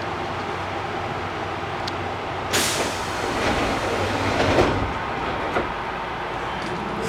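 Inside a Nishitetsu 5000 series electric train car: a steady low hum and rumble. About two and a half seconds in there is a short burst of hissing air, with a couple of smaller knocks later on.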